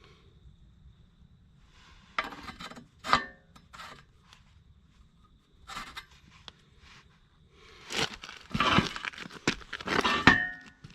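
Steel retaining pin being worked through a mini excavator's greased blade-wing pivot, metal scraping and rubbing in short bursts with clinks and a brief metallic ring near the end. The pin slides easily and smoothly.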